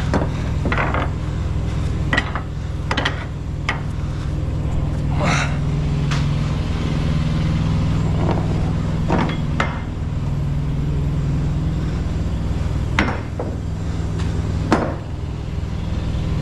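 An engine idles steadily, with scattered sharp metallic knocks and clanks over it.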